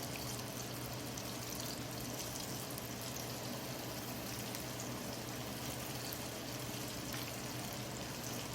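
Battered chicken tenders frying in hot vegetable oil, a steady sizzle with fine crackling.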